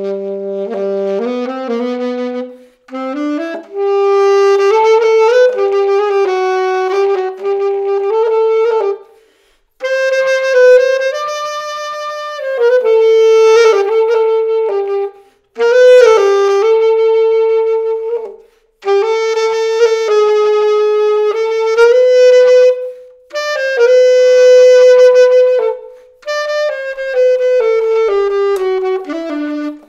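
Selmer Mark VI alto saxophone played solo in a series of melodic phrases, held and moving notes broken by short pauses for breath, on a freshly overhauled horn.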